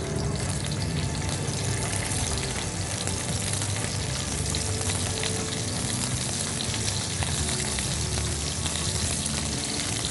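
Peeled king prawns frying in hot olive oil in a non-stick pan: a steady sizzle flecked with small crackles as more prawns go in.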